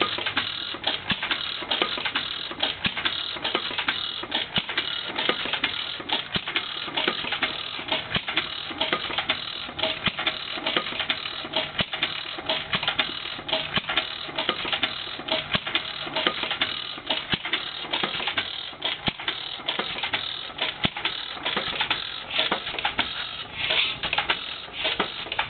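1925 Witte 5 hp single-cylinder flywheel stationary engine running, with a rapid, steady clatter of mechanical clicks and ticks.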